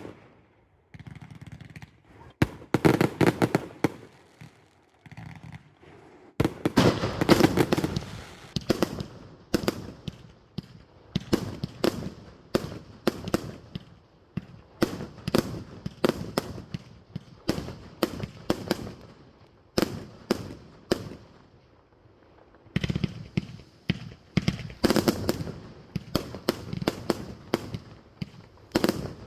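Fireworks going off in a continuous barrage of sharp bangs. Dense clusters of crackling bangs come about two seconds in, around seven seconds in, and again near the end, with a steady run of single bangs about two a second between them.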